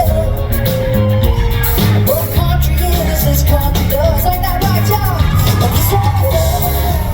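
Live country band playing loudly, with a lead singing voice over a steady bass line.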